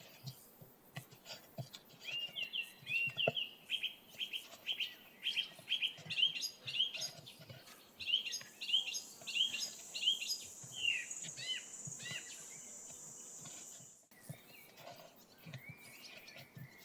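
A bird calling in a long run of quick repeated chirps, about two or three a second, lasting some ten seconds. A steady high hiss joins partway through and stops abruptly near the end.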